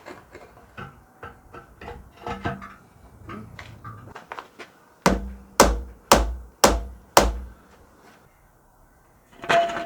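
A few seconds of scattered light knocks and clatter, then five loud hammer blows about half a second apart, each with a heavy thud. A short scraping noise comes near the end.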